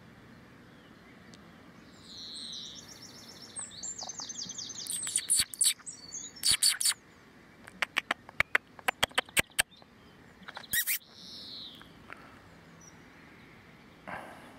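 Small songbirds singing and calling. A quick trilled song comes about two seconds in, followed by a run of sharp, short chipping calls.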